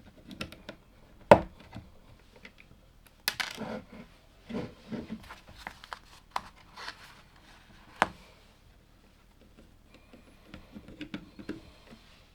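LEGO plastic bricks being handled and pressed together: scattered sharp clicks, the loudest about a second in and another near the middle, with short stretches of rustling and rattling as pieces are sorted.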